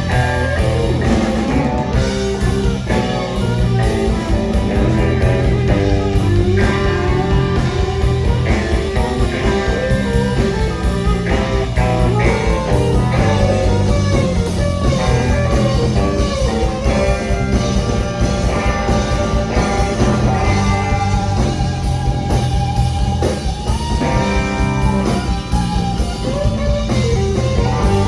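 Live blues-rock band playing an instrumental passage: a lead electric guitar plays bending melodic lines over bass guitar and drum kit, with no singing.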